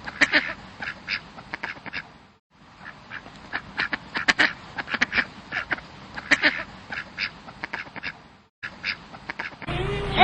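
Birds calling in a rapid series of short, harsh calls. The sound cuts out briefly twice.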